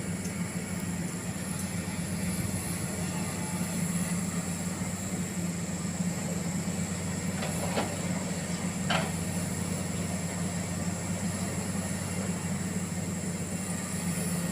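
Heavy machinery engine running steadily with a low, even drone, with two brief sharp clicks about eight and nine seconds in.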